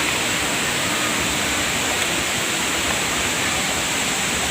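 Steady rush of heavy-flowing water from the Bantimurung waterfall and its stream.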